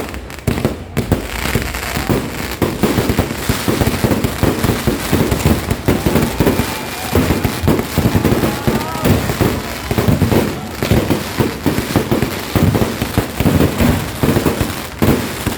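Fireworks and firecrackers going off in a rapid, continuous barrage of cracks and pops, with no break.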